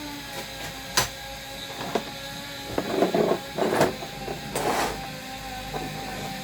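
Old steel bolts and nuts clinking and rattling as they are picked through and dropped: a sharp click about a second in, another near two seconds, then several short clattering rattles, over a steady background hum.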